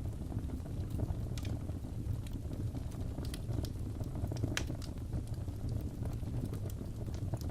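Fireplace fire crackling: a steady low rumble of burning with irregular sharp pops and crackles, one louder pop about halfway through.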